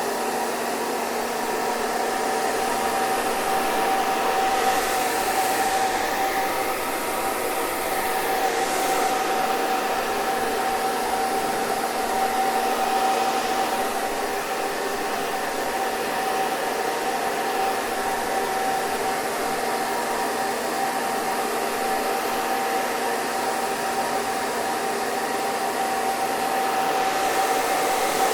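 Hair dryer running steadily: a continuous blowing hiss with a steady motor whine.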